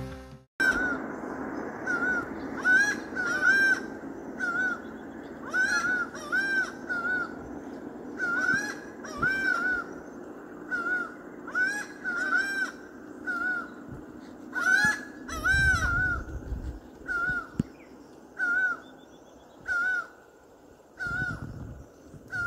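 A bird calling over and over at dawn: short arched notes, singly or in pairs, every second or two, over a steady low background hum.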